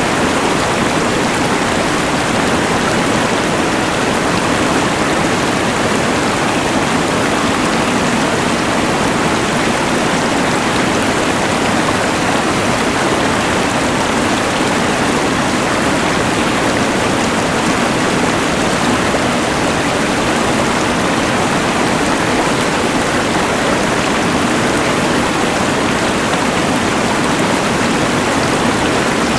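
Rushing mountain river with a LectroFan white noise machine's hiss blended in: a steady, unbroken wash of water noise with no change in level.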